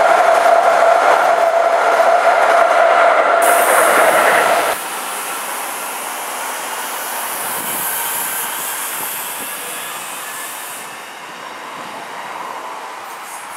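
Electric trains passing. For the first few seconds a train crossing a bridge with a steady high-pitched tone over its running noise. Then the sound changes abruptly to a Matangi electric multiple unit running past on the track, its noise slowly easing off.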